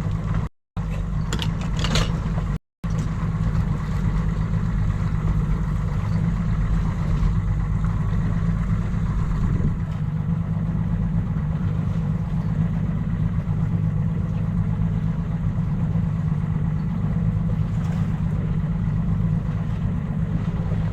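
Boat's outboard engine running steadily, a low even hum. The sound cuts out completely twice for a moment in the first three seconds.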